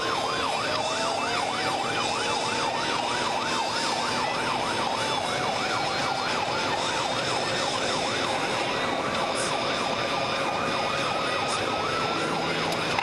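Police cruiser siren on fast yelp, its pitch sweeping up and down about three to four times a second, changing about nine seconds in to a slower wail, over steady vehicle noise.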